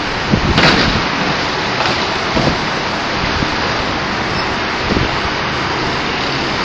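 Strong wind rushing over the microphone, a steady noise with a few low buffeting thumps in the first second.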